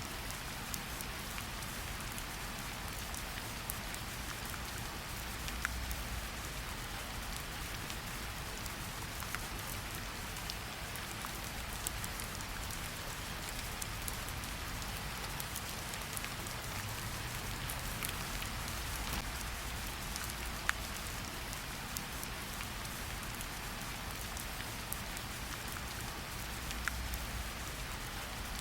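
Steady rain falling in a forest, a constant hiss with scattered close drops ticking sharply on the surfaces around.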